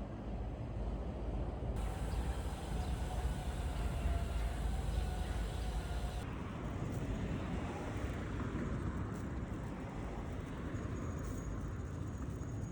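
Low, steady rumble of a moving vehicle, with a hiss that grows brighter for a few seconds early in the stretch.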